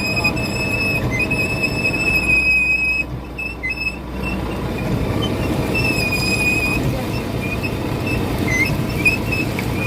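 Steady running noise of a fishing boat under way, with a thin, high whistle-like tone that comes and goes over it and drops out for about a second a few seconds in.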